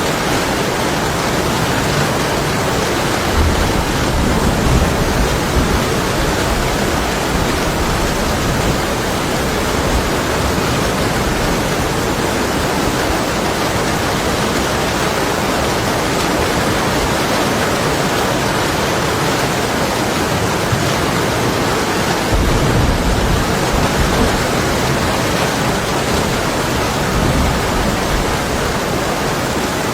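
Heavy rain beating steadily on window glass, with low, distant thunder rumbling twice, a few seconds in and again about two-thirds of the way through.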